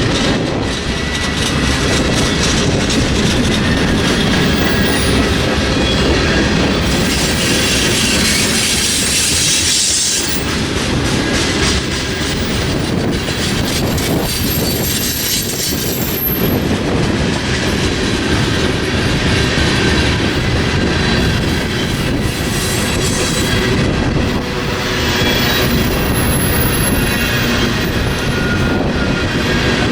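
Railroad cars of a passing train rolling by, wheels running on the rails with a steady clatter. Thin, high wheel squeal comes in twice, around the middle and again near the end.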